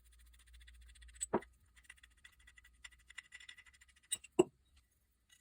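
Light clicks and taps of engine parts being handled on a workbench, with two louder knocks, one about a second in and a stronger one near the end.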